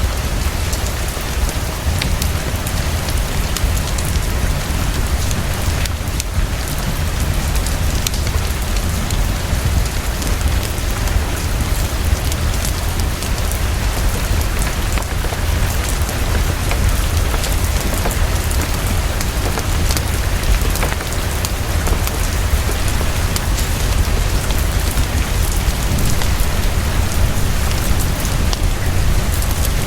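Heavy, steady rainfall with scattered sharp drop ticks over a deep low rumble.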